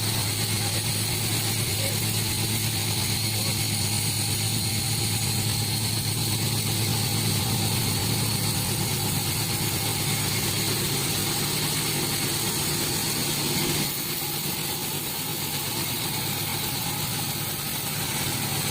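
Sawmill machinery running steadily, a continuous mechanical drone with a low hum and a high whine; it drops a little in level about 14 seconds in.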